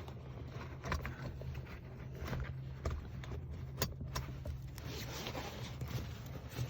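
Scattered clicks and rustling from a child car seat's harness straps and buckles being handled, over a steady low hum.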